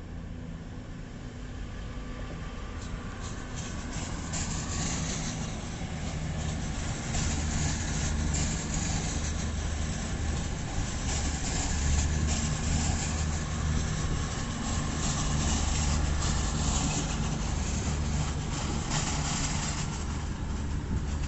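Diesel train passing through the station. Its engine hum grows louder from about three seconds in, with irregular clattering of wheels over rail joints and points.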